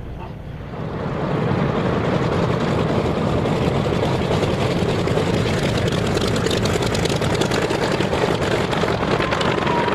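Piston-engine unlimited-class race plane running the course, its engine and propeller noise swelling about a second in and then holding steady and loud.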